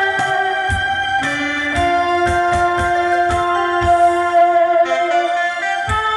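Saxophone playing a slow melody of long held notes, one with a slight vibrato, over a recorded backing track with a steady beat.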